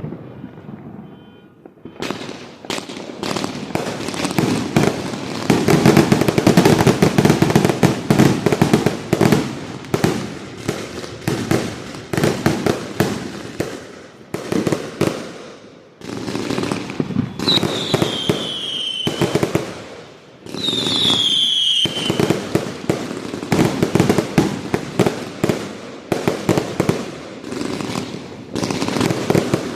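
A 400-shot consumer firework cake firing a rapid, dense barrage of shots and crackling bursts, starting about two seconds in and running on with only brief lulls. Twice, about two-thirds of the way through, short high whistles fall in pitch over the shots.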